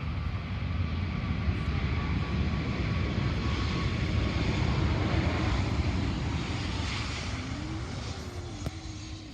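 Aircraft engine noise of a fixed-wing plane passing, swelling to its loudest around the middle and fading toward the end.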